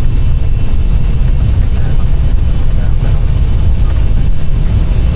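Steady low rumble of an Airbus airliner in flight on approach, the noise of airflow and engines heard inside the aircraft.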